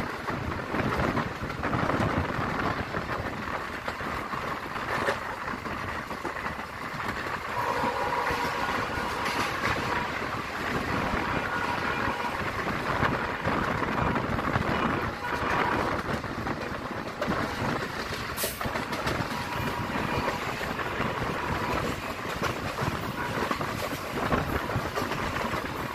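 Passenger train running at speed, heard from an open coach doorway: a steady rumble of wheels on the rails mixed with wind rushing past.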